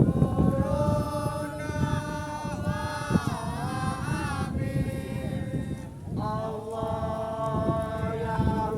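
A group of voices chanting together in long held and gliding notes, the chanted singing of a kompang troupe, with wind rumbling on the microphone underneath.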